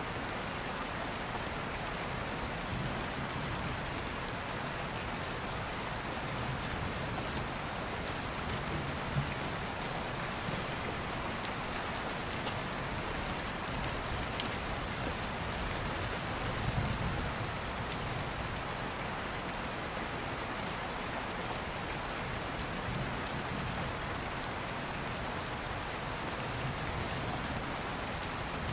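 Steady rain falling as a dense, even hiss, with a few sharp crackles from a wood fire now and then.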